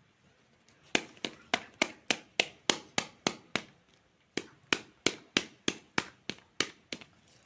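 A knife chopping toy fruit on a cutting board: sharp, even chops at about three a second, in two runs of about ten with a short pause between them.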